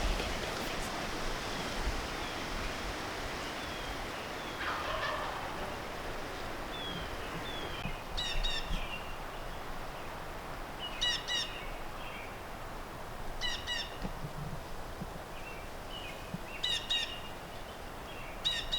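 Wild turkey gobbling about five times, a few seconds apart, starting a little before halfway through. Wind rumbles on the microphone and small birds chirp in between.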